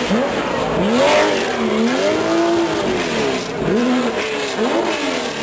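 Porsche 911 flat-six engine being revved repeatedly, the pitch climbing and dropping about five or six times, with one longer held rev in the middle.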